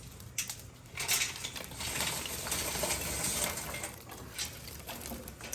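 Hot charcoal poured from a chimney starter onto a bed of coals in a smoker's firebox: a couple of knocks, then a clattering, tinkling rush of coals from about a second in that dies down after a few seconds.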